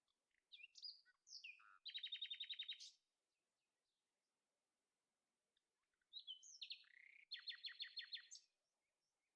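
A songbird singing two phrases. Each phrase opens with a few varied whistled notes and ends in a fast trill of repeated notes lasting about a second. The second phrase starts about six seconds in.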